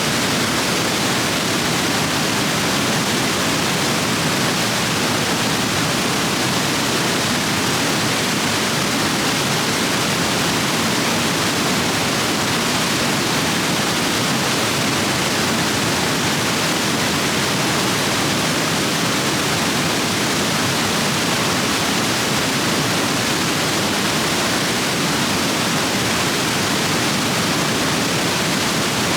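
Rapids in a rain-swollen stream rushing over rocks, a loud, steady roar of water with no change.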